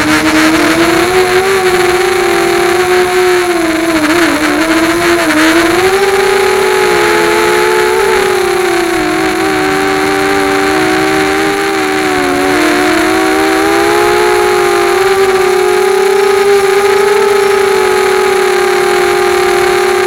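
QAV250 racing quadcopter's four brushless motors and propellers whining in flight, several close tones that rise and fall as the throttle changes, with dips and wobbles in pitch around four to five seconds and again around twelve seconds.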